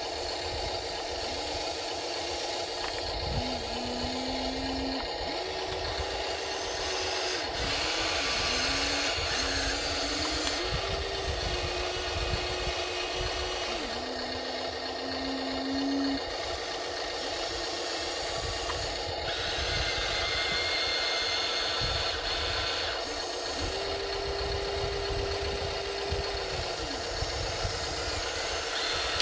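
Electric motors of radio-controlled toy construction machines (a Huina excavator and bulldozer) running in short runs of one to three seconds. Each run is a whine that rises, holds a steady pitch and drops off, over continuous low rattling and clatter.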